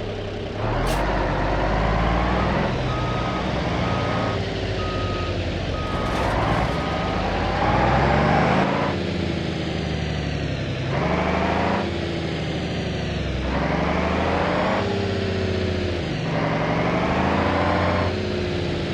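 Small electric motors of a homemade toy tractor whining, their pitch repeatedly rising and falling as they strain. A regular beeping tone, like a reversing beeper, sounds for a few seconds about three seconds in.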